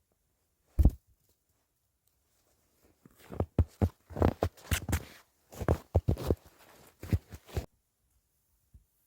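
A sharp double knock about a second in, then a quick, irregular run of thumps and crunches lasting about five seconds.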